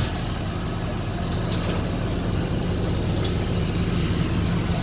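An engine running steadily at idle, a continuous low hum with a faint hiss over it.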